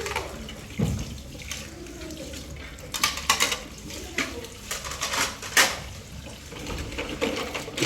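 Scattered sharp clicks and knocks of hard objects being handled, about a dozen at uneven intervals over a steady background noise.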